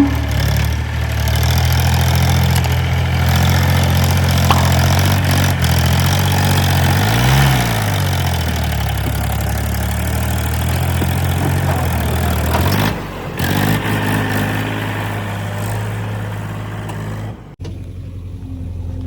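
Heavy diesel engine running steadily under load, its pitch dipping briefly and recovering about seven seconds in; the engine sound changes abruptly twice near the end.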